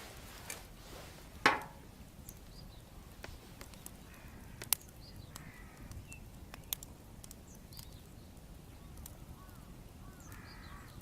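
Wood bonfire crackling with scattered sharp pops, the loudest about a second and a half in. Birds call in the background several times, short hoarse calls.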